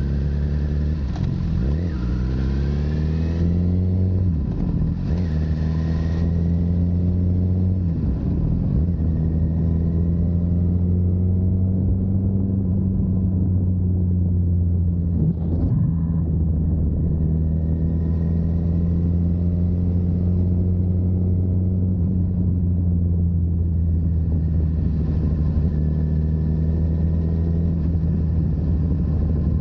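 Honda CBR1000RR's inline-four engine through a Yoshimura full exhaust, rising and dropping in pitch through several gear changes in the first few seconds, then running at a steady cruise.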